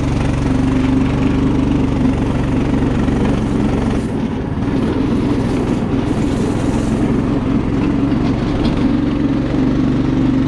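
Go-kart's small single-cylinder Coleman mini bike engine running steadily while the kart is driven, with a brief dip in level about four seconds in.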